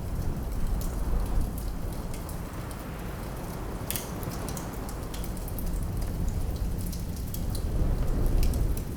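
Wood fire crackling in a fireplace, with scattered sharp pops and one louder snap about four seconds in, over a steady low rumble of wind.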